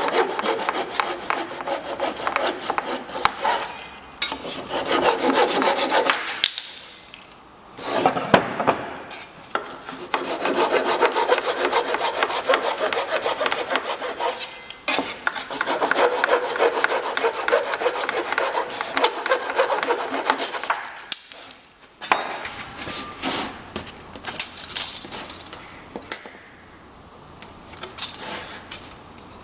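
Rapid back-and-forth abrading of white oak by hand, in three long runs with short pauses between them. In the last several seconds it gives way to lighter, scattered scrapes and taps.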